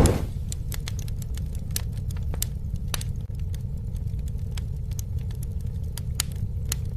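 Campfire crackling, with scattered sharp pops over a steady low rumble. There is a brief, loud whooshing swell right at the start.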